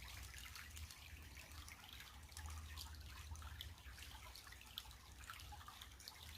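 Faint trickling creek water, with many small irregular drips and splashes over a low rumble.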